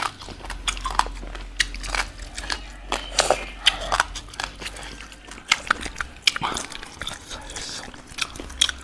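Close-miked chewing and biting with many wet mouth clicks and crunches: two people eating boiled pork wrapped in raw lettuce and herbs.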